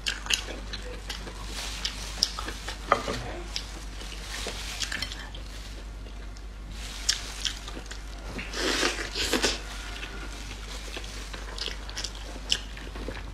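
Close-miked chewing of tender boiled meat off the bone, with scattered wet mouth clicks and a louder stretch of chewing about two-thirds of the way through.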